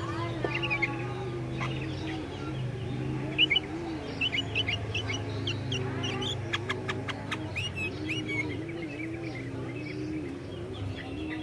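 Sooty-headed bulbul (kutilang) calling in short, repeated chirping notes, with a quick run of sharp clicks a little past halfway. A steady low hum runs underneath.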